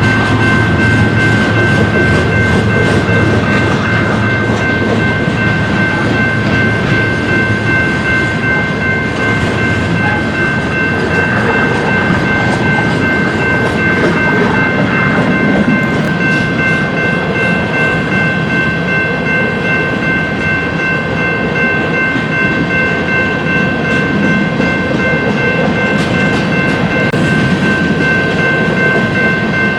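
Long train of empty coal hopper cars rolling past: a steady, loud rumble and clatter of wheels on rail, with constant high-pitched tones ringing above it throughout.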